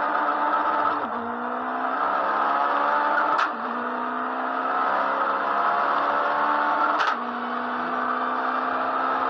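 Turbocharged Honda Civic engine pulling hard at high revs, heard from inside the cabin, its pitch rising slowly and then dropping at gear changes about one, three and a half and seven seconds in. The last two shifts each bring a short, sharp burst.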